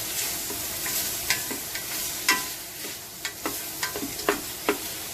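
Chopped onions, shallots and garlic sizzling in hot oil in a pot while being stirred, a steady hiss broken by frequent sharp taps of the utensil against the pot.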